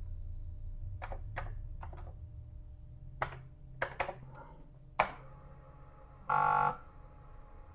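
Computer keyboard keys pressed one at a time, about seven clicks, followed about six seconds in by a short electronic beep, over a steady low hum.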